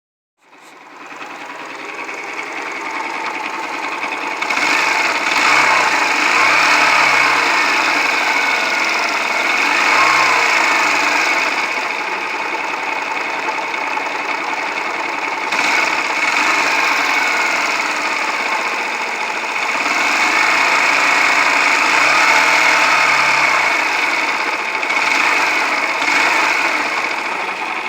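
Yamaha YBR125 single-cylinder four-stroke engine running with a heavy mechanical knock and clatter, revved up and back down several times. The owner takes the noise for wrecked crankshaft bearings and their crankcase seats and a worn piston and rings, possibly with a worn timing chain, after long running with almost no oil.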